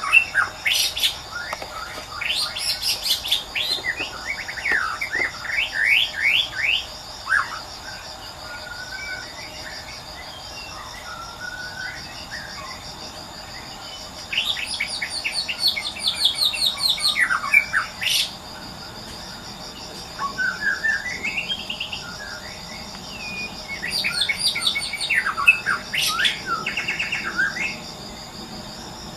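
White-rumped shama singing in three bouts of varied, rapid whistled and trilled phrases, separated by pauses of several seconds. An insect trills steadily underneath.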